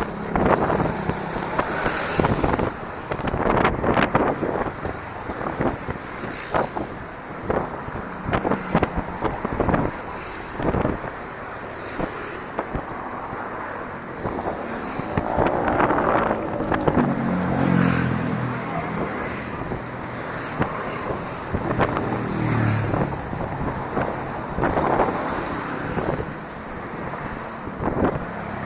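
Bicycle rattling and knocking as it is ridden over a rough dirt trail, with wind on the microphone. A short pitched sound comes up twice, about two-thirds of the way through and again a little later.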